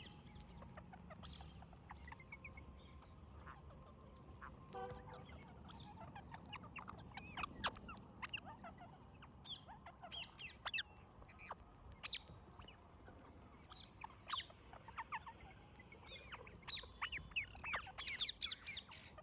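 Parrots squawking and chirping in many short, sharp calls, scattered throughout and coming thicker near the end.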